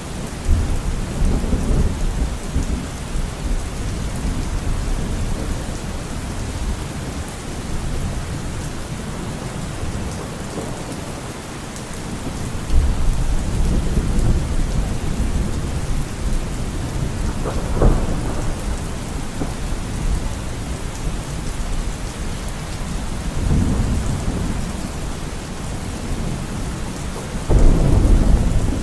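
Steady, heavy rain with rolls of thunder swelling up several times, including a sharper clap about 18 seconds in and a strong rumble near the end.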